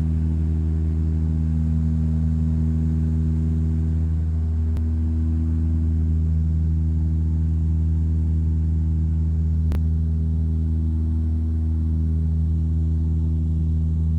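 Steady drone of a de Havilland Canada Dash 8-300's turboprop engines and propellers heard inside the passenger cabin: a low, even hum built on strong steady tones.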